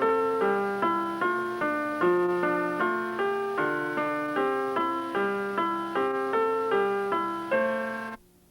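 Piano music: a steady, evenly paced run of struck notes, about two and a half a second, each fading after it is played. It cuts off abruptly near the end, leaving only a faint hum.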